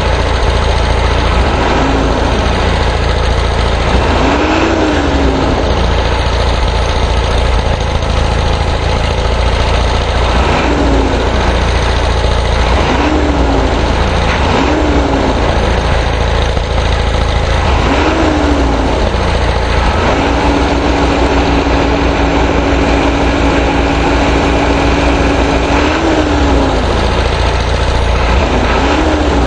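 1987 Ford E350's 6.9L International IDI diesel V8 being revved again and again, its pitch rising and falling about ten times, once held up for about six seconds. The engine is still cold, with its cold-start timing advance stuck on, which makes it clattery.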